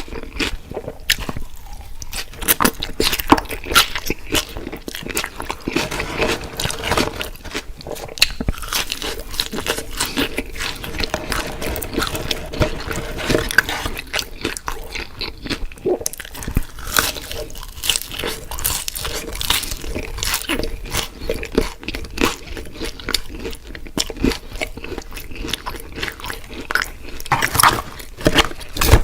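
A person biting and chewing crunchy fried food: a continuous, irregular stream of sharp crunches and chewing clicks.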